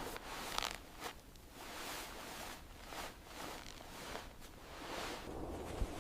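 Irregular short rustling, scraping strokes, about two a second, with a few sharp clicks.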